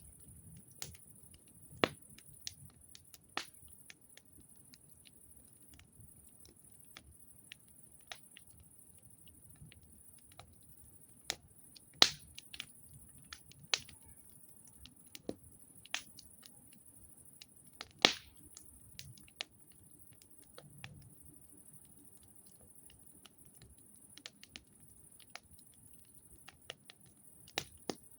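Wood fire crackling: irregular sharp pops and snaps over a low, quiet background, with two louder cracks about twelve and eighteen seconds in.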